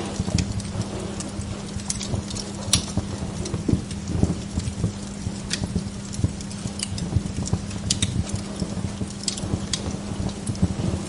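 Wood log fire crackling in a fireplace: irregular sharp pops and snaps over a steady hiss and low hum.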